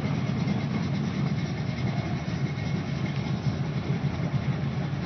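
Two drag-race cars' engines idling at the starting line: a steady low rumble.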